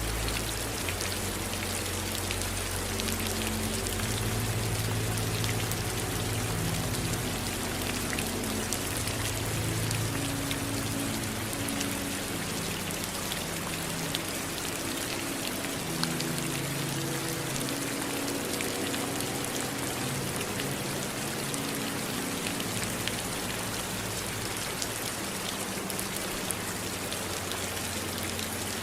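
Steady rain: an even hiss with individual drops striking close by as scattered sharp ticks.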